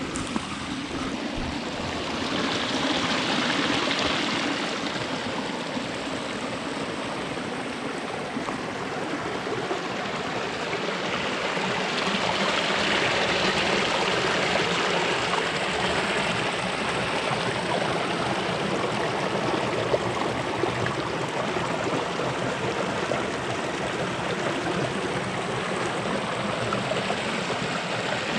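Rushing water of a small creek running high after heavy rain, a steady flowing noise that grows louder twice.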